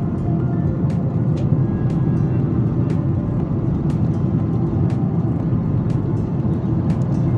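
Steady low rumble of an airliner's engines and airflow heard inside the passenger cabin, with faint regular ticks about once a second.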